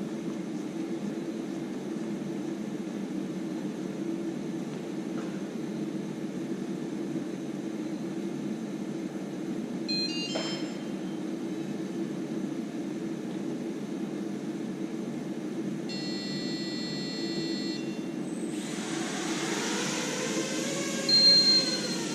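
A steady low hum, then about three-quarters of the way through a small quadcopter's electric motors and propellers speed up, their pitch swinging up and down as it lifts off. A brief high electronic tone sounds just before the spin-up, and a short loud knock comes near the end.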